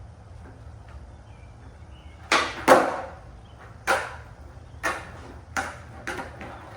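Skateboard deck and wheels clacking down on a concrete patio: six sharp clacks spread over about four seconds, the second one loudest and the later ones fainter, as the board is popped and lands during warm-up tricks.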